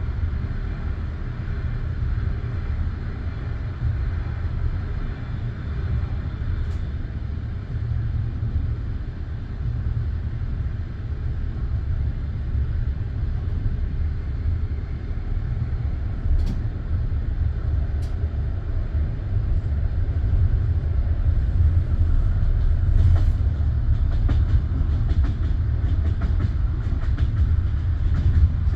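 Passenger train carriage rolling along with a steady low rumble of wheels on rails. Scattered wheel clicks over rail joints come in during the last few seconds as it grows slightly louder.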